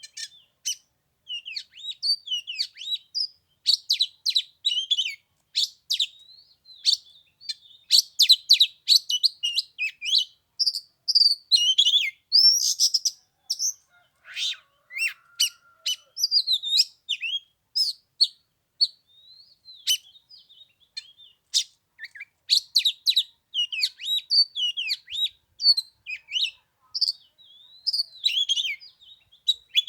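Oriental magpie-robin singing: a continuous, varied run of high whistles, chirps and quick trills with brief pauses.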